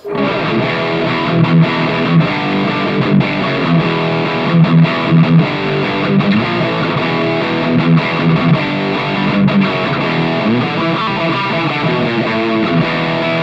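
Electric guitar played through a Mooer Red Truck combo pedal with its drive and distortion stages stacked, giving a continuous, heavily distorted hard-rock riff.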